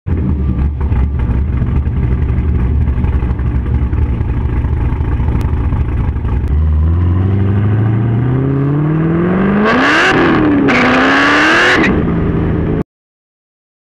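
Chevrolet Corvette V8 idling with a steady low rumble, then accelerating hard: the engine note climbs steadily, dips briefly at an upshift about ten seconds in, climbs again, and cuts off suddenly near the end.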